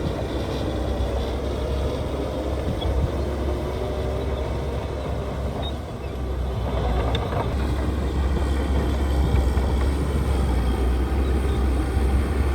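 Heavy earthmoving machinery's diesel engine running steadily with a deep rumble. It dips briefly about six seconds in, then picks up and runs a little louder.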